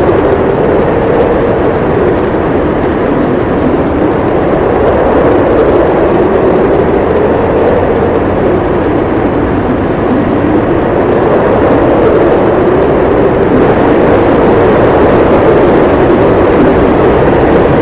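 Howling blizzard wind, a loud steady rush whose hollow tone slowly wavers up and down.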